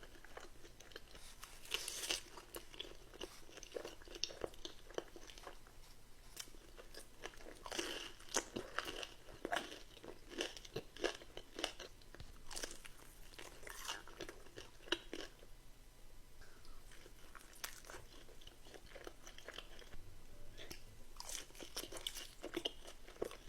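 A person biting and chewing crunchy food, a steady run of irregular, crisp crunches.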